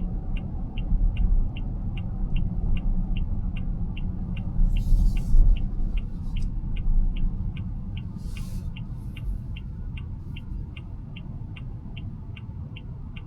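Car turn-signal indicator ticking evenly at about three ticks a second over the steady low rumble of road noise in the cabin. Two brief hissing rushes come through about five and eight and a half seconds in.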